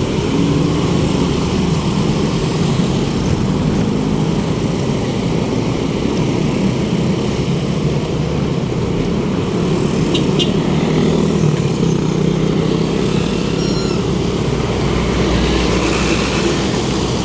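City street traffic heard while riding a bicycle: a steady mix of vehicle engines and road noise, heaviest in the low end.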